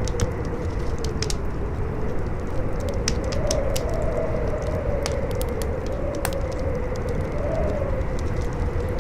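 Campfire crackling with scattered sharp pops, over a steady howling wind that slowly rises and falls in pitch.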